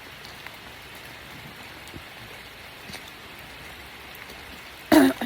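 Steady rain falling, an even hiss. About five seconds in, a brief loud sound with a falling pitch breaks in.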